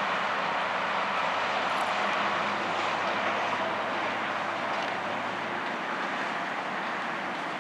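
Steady rush of passing road traffic, with a low engine hum underneath that fades out about five and a half seconds in.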